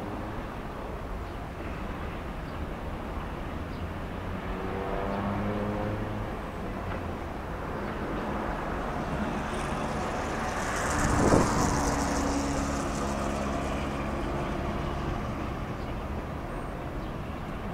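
Covered hopper cars of a freight train rolling past, their wheels making a steady low rumble. About eleven seconds in, a louder rushing swell with a high hiss rises and fades.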